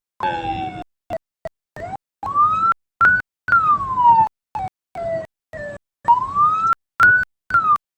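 Vehicle siren wailing, its pitch sliding slowly up and then down over a few seconds, again and again, broken by frequent brief dropouts in the sound.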